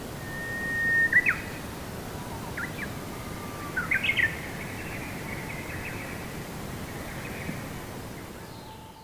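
Birds calling over a steady background noise: a held whistle, then a sharp upward chirp about a second in, and a cluster of quick chirps around four seconds in. The whole sound fades out near the end.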